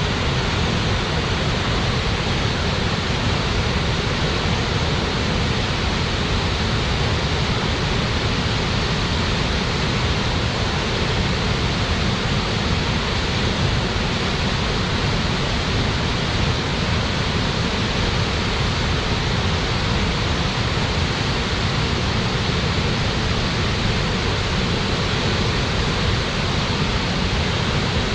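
Waterfall: water falling and crashing in a steady, dense rush with no change.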